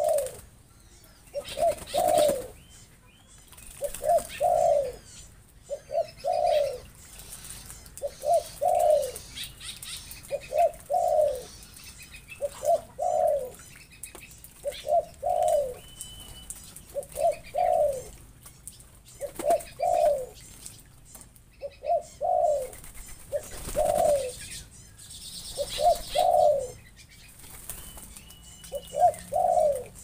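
A bird in the aviary calling over and over, a short low phrase of two or three falling notes about every two seconds. Behind it are soft splashes and wing-flaps from birds bathing in the pond.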